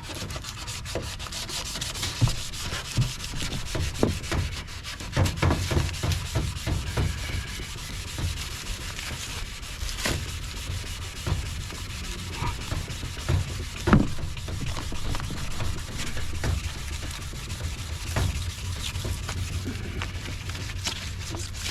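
Sandpaper rubbed back and forth over a plastic headlight lens, a steady scratchy sanding noise with small ticks and a few sharper knocks.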